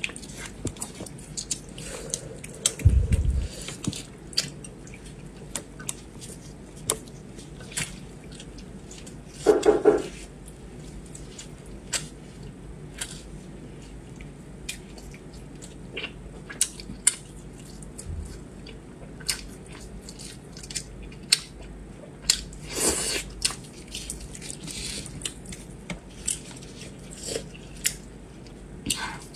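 Close-miked eating of braised pork: chewing with many small wet mouth clicks and smacks, and a few louder knocks and handling sounds from gloved hands working the meat in a bowl.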